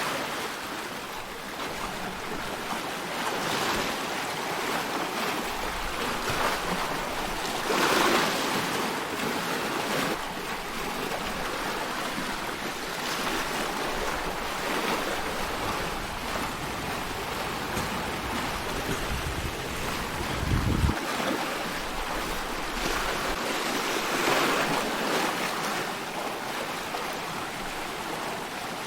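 Ocean waves: a steady wash of surf that swells and eases, strongest about eight seconds in and again later, with a brief low rumble about two-thirds of the way through.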